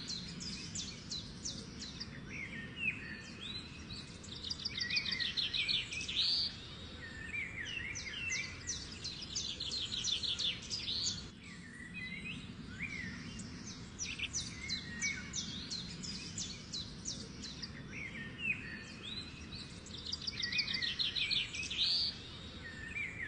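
Birdsong from several birds: rapid chirping trills and short rising whistles, over a steady low background hum.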